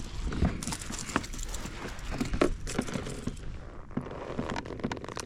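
Irregular knocks, taps and rattles from a small, just-caught mangrove snapper being handled at the kayak, the fish and tackle bumping against the hull.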